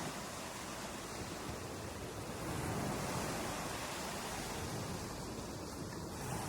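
Ocean surf: waves washing onto a beach as a steady rushing wash, swelling a little about halfway through.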